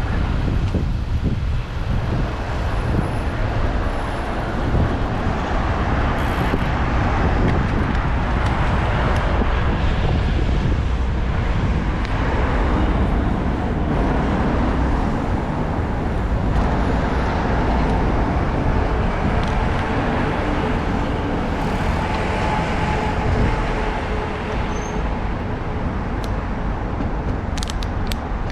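City road traffic heard from a moving bicycle, with heavy wind rumble on the bike-mounted action camera's microphone. A faint steady whine comes in for several seconds past the middle, and there are a few light clicks near the end.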